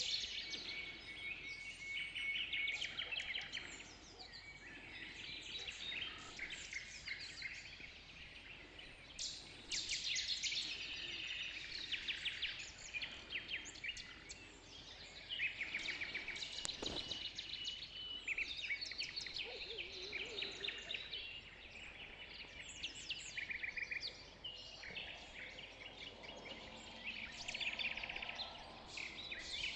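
Dawn chorus of many songbirds, with overlapping chirps, trills and short repeated notes, and a single click about halfway through.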